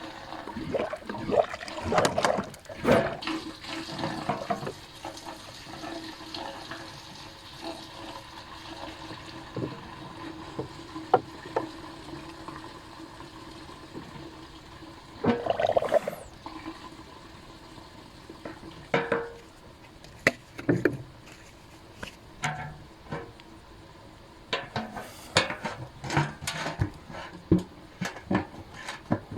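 Water being poured into a metal drum of calcium carbide, with scattered knocks and clunks throughout.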